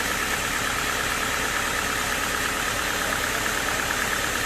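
Sawmill machinery running steadily, a constant engine-like noise with no change in pitch or level.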